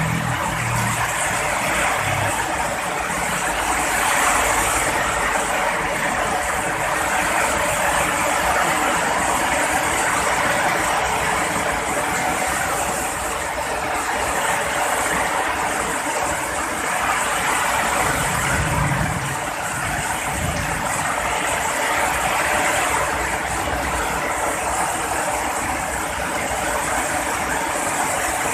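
Heavy rain falling steadily, a dense even hiss that swells and eases every few seconds, with a brief low rumble about two-thirds of the way through.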